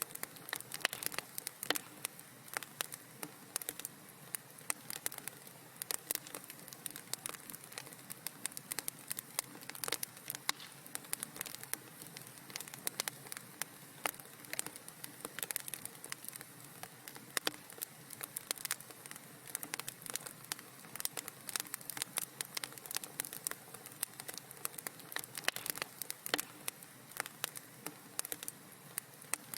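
Wood fire crackling steadily in a fireplace: many small sharp pops and snaps over a soft hiss.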